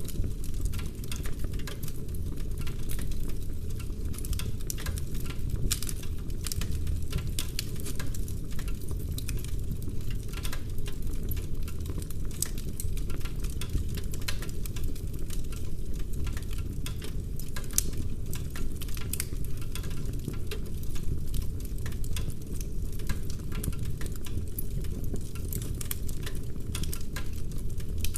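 Wood fire burning in a fireplace, with dense, irregular crackling and popping of the logs over a steady low rumble.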